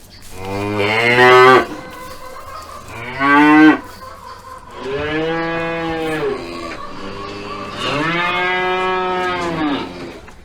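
Cattle mooing: four calls, two short rising moos followed by two long drawn-out moos that rise and then fall in pitch.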